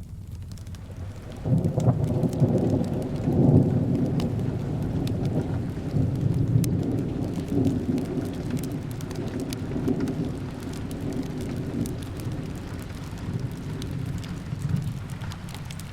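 Rolling thunder over steady rain: a deep rumble comes in suddenly about a second and a half in, is loudest a couple of seconds later, then slowly fades while the rain hiss and scattered small clicks go on.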